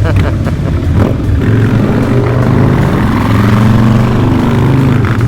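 Harley-Davidson Night Train V-twin motorcycles running loud on the road, the engine note fairly steady with slight rises and falls in pitch.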